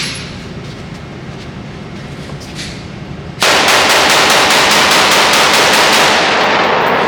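Rifle fitted with a cookie-cutter muzzle brake firing a fast string of about fifteen shots, roughly five a second, starting about three and a half seconds in. The shots echo on for a moment after the string stops.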